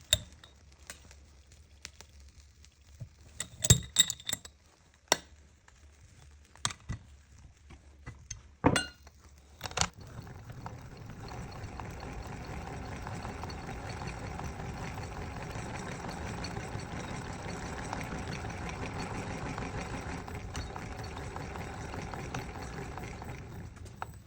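A few sharp clinks and knocks, then from about ten seconds in a mini popcorn machine runs with a steady whirring hum.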